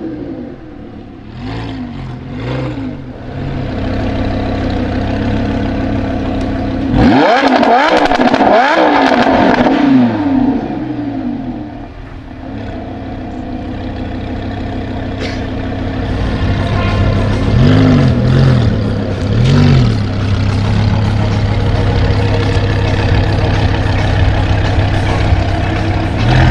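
Lamborghini Huracán LP610-4's naturally aspirated V10 through a Frequency Intelligent (Fi) aftermarket exhaust, being revved: a couple of short blips, then a long hard rev that climbs sharply and falls back in steps. It settles to a steady idle, then gives two more quick blips later on.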